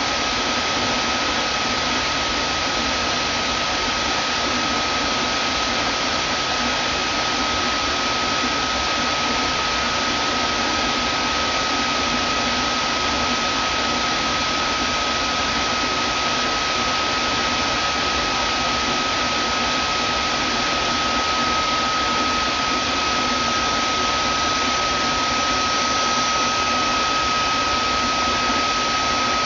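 Vacuum cleaner running steadily: a continuous airy rush with a steady high whine through it.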